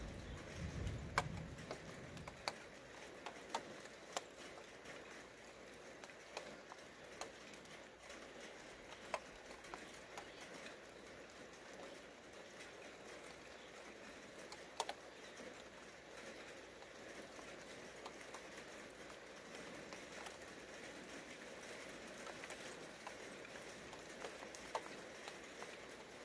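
Light rain falling steadily, with scattered drops ticking sharply close by. The tail of a low rumble dies away in the first couple of seconds.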